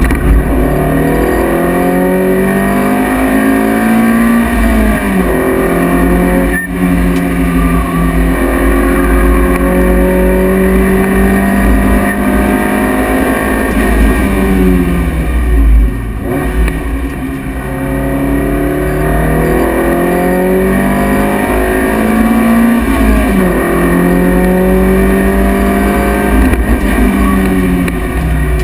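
Lotus Elise S1's four-cylinder engine under hard driving, heard from inside the cabin: revs climb in steps through upshifts, hold high on the straights, and drop with downshifts under braking about five seconds in, about halfway through and near the end. A steady low road and wind rumble runs underneath.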